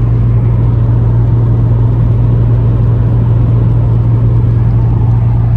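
Interior car noise while cruising at a steady speed: a constant low engine drone with road and tyre rumble, unchanging throughout.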